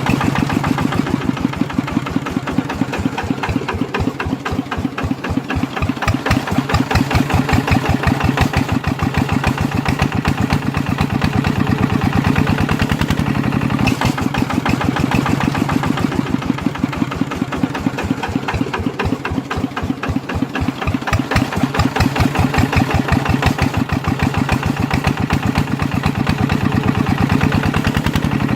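Small diesel engine of a walking (hand) tractor running steadily with a rapid, even chugging beat that grows a little louder and softer at times.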